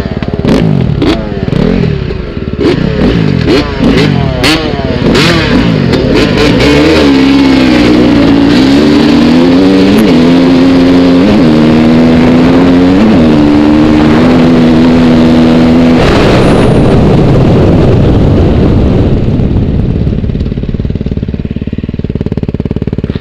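Motorcycle engine blipped and revved, then accelerating hard through the gears, its note climbing and dropping sharply at each of several upshifts. The engine note cuts off about sixteen seconds in, leaving a rushing noise that fades.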